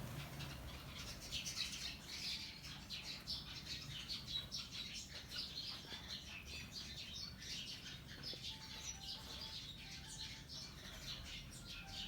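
A flock of small wild seed-eating birds (pipits in the Indonesian sense, sparrow- and munia-like finches) chattering while they feed on rice, a dense overlapping stream of short high chirps.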